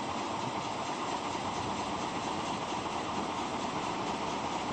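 Steady, even running noise of a train in a railway station, with no horn or distinct wheel clicks.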